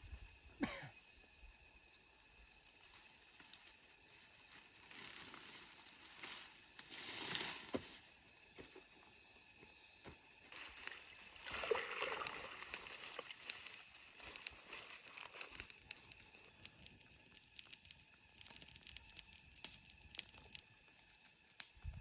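Rustling and crinkling handling noise with many small clicks and snaps, swelling louder twice, about seven seconds in and again around eleven to thirteen seconds.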